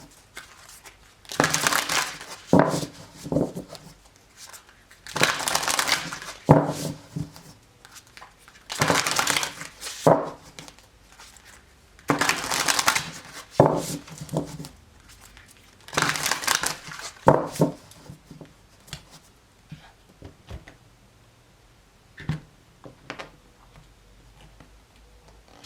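A deck of tarot cards shuffled by hand: five rustling bursts of about a second each, a few seconds apart, then a few light clicks and taps in the last third.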